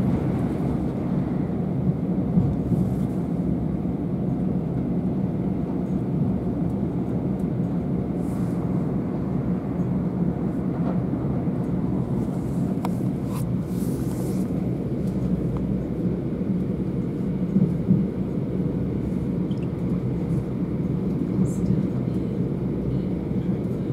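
Steady low rumble of a Southeastern Class 375 Electrostar electric multiple unit running at speed, heard inside the carriage, with a few faint clicks about halfway through.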